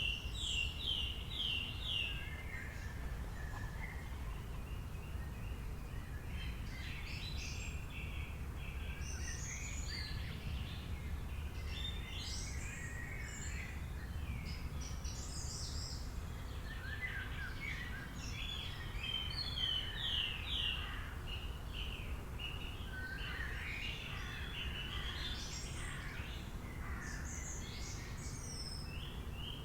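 Several songbirds chirping and singing, one repeating a quick series of notes near the start and again near the end, over a steady low background rumble.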